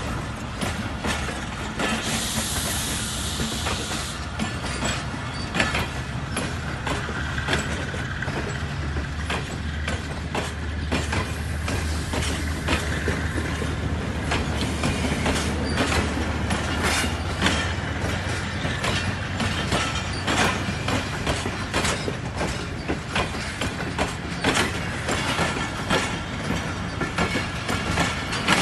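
Passenger coaches of a departing Pakistan Railways express train rolling past, the wheels clicking steadily over the rail joints over a steady low rumble. A short hiss comes about two seconds in.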